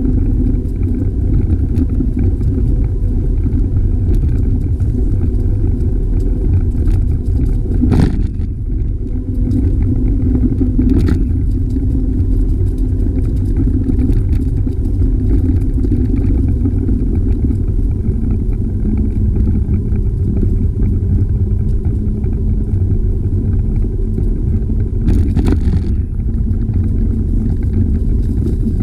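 Steady low rumble of wind and riding vibration on a bicycle-mounted camera's microphone while cycling, with a few short knocks from bumps along the way.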